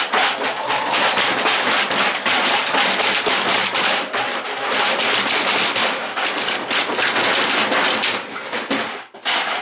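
Washing machine drum spinning with a loose car alternator tumbling inside it, making a loud continuous clatter of rapid metal impacts. The noise cuts out briefly about nine seconds in.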